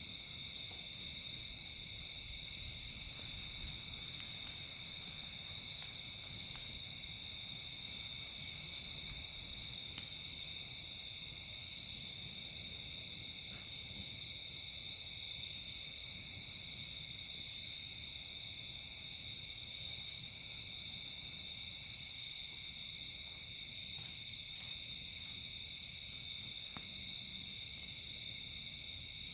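Steady chorus of night insects: a constant high chirring of crickets, with a still higher pulsing trill that comes and goes every couple of seconds. A single faint click about ten seconds in.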